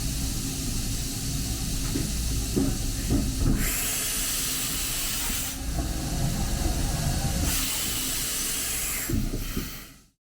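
2008 OKK HM500S CNC horizontal mill running: a steady machine hum under a continuous hiss, with two stretches of about two seconds of louder, higher hiss and faint whine, and a few short knocks early on. The sound cuts off abruptly near the end.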